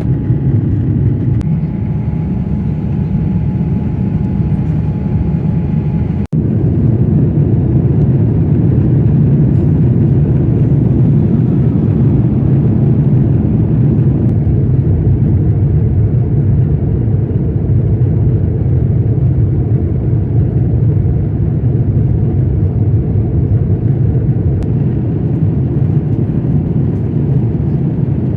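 Steady low rumble of airliner cabin noise from an Airbus A350's engines and airflow, with a brief break about six seconds in.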